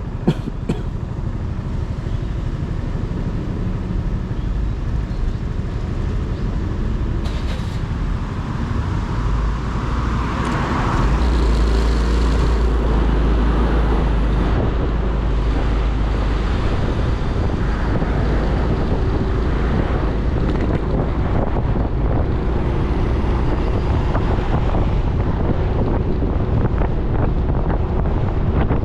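Motorcycle on the move: wind rushing over the microphone, mixed with engine and road noise. It grows louder about ten seconds in and then stays steady.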